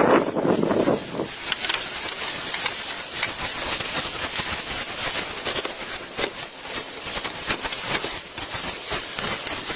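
Steady hissing noise with many scattered crackles and clicks, and a louder muffled rush in the first second.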